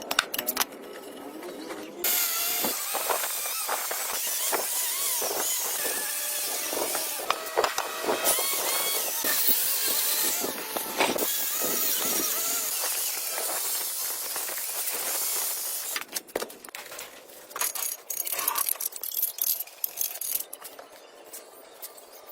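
A power tool runs loudly for about fourteen seconds, starting and stopping suddenly, followed by scattered metallic clinks and knocks of hand work.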